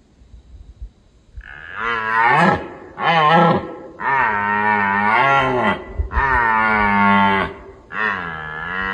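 Red deer bellowing: five long calls in quick succession beginning about a second and a half in, each swelling and bending up and down in pitch.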